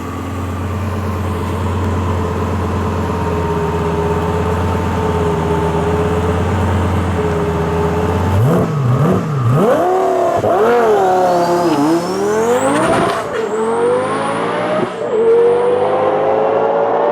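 Twin-turbo Lamborghini Gallardo V10 engine idling steadily for about eight seconds, then revved up and down several times with a high turbo whistle rising over the revs. Near the end the pitch climbs steadily as the engine pulls.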